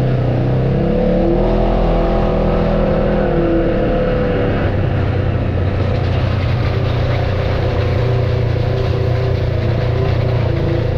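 Off-road vehicle's engine running under load on a trail. Its pitch rises and bends over the first few seconds, drops back about five seconds in, and then holds steady.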